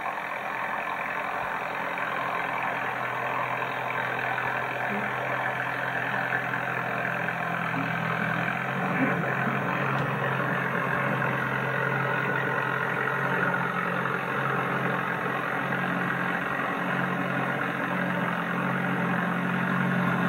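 Tractor engine running steadily while snowblowing, with a constant hum that slowly grows louder.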